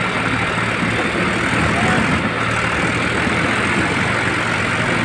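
Diesel tractor engines running hard under load, pulling against each other in a tractor tug-of-war.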